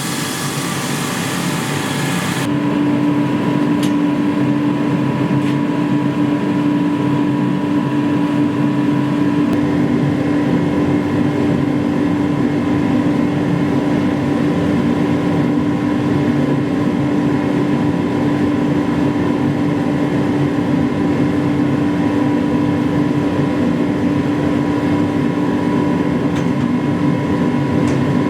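Steady machine noise with a constant hum; about two and a half seconds in, the high hiss cuts off abruptly and the hum and lower noise run on.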